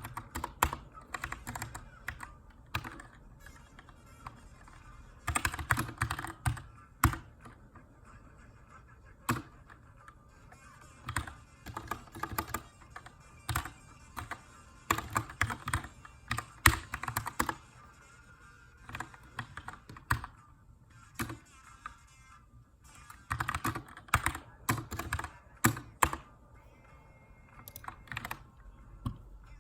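Typing on a Keychron K2 aluminium-framed mechanical keyboard with brown switches: clusters of keystrokes in short bursts separated by pauses, as in text editing. Faint music plays underneath.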